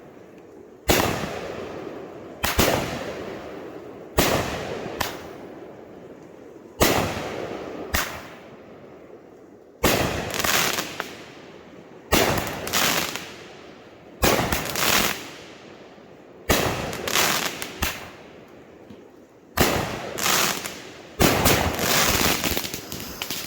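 A 16-shot, 200-gram consumer fireworks cake firing shot after shot. Over a dozen sharp bangs of shells breaking come one every second or two, each trailing off in crackle.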